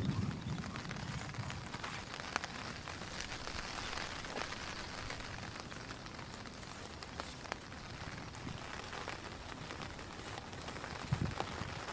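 Heavy rain falling steadily, with many sharper single drop hits scattered through it; a low rumble dies away at the very start.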